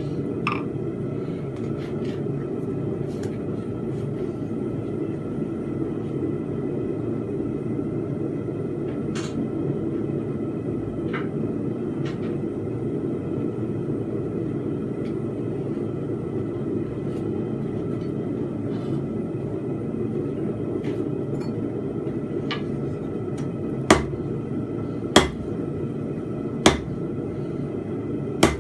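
Steady low rumble of a blacksmith's forge, with four sharp hammer blows on steel near the end, about a second and a half apart.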